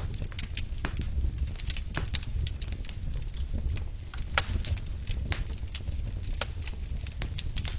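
Wood fire crackling in a fireplace: irregular sharp pops and snaps over a steady low rumble of the flames, with one louder pop a little past the middle.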